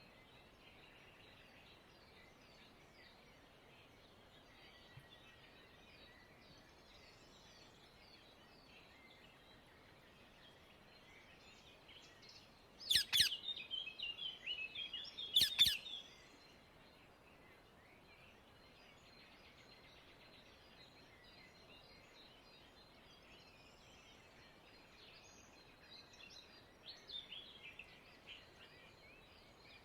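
Wild rose-ringed (Indian ringneck) parakeets calling: a loud burst of harsh, rapid calls lasting about three seconds midway, with fainter calls near the end, over faint background chirping.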